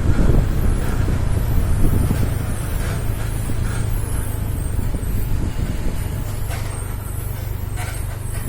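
Heavy diesel truck engine running with a steady low drone that slowly eases off, with a few short sharp sounds near the end.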